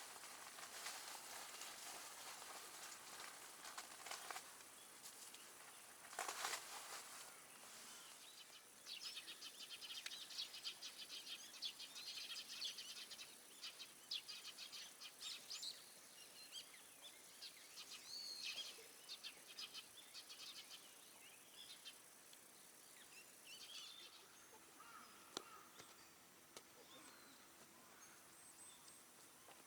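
Quiet outdoor ambience with faint rustling and crackling handling noises, densest in the first half, and a few faint bird chirps.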